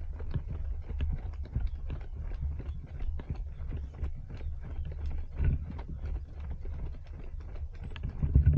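Running footsteps on pavement, a quick run of short slaps and knocks over a steady low rumble, louder for a moment about halfway through and again near the end.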